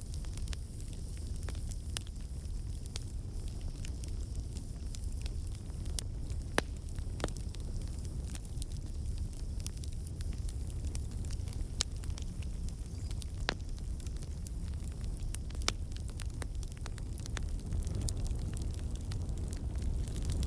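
Wood campfire burning: a steady low rumble with irregular sharp crackles and pops from the logs, made as water and sap in the wood turn to steam and burst out.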